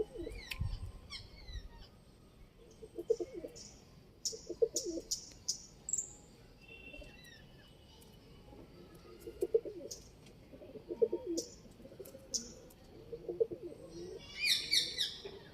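Domestic pigeons cooing again and again, with short high chirps and clicks between the coos. A louder run of high chirps comes near the end.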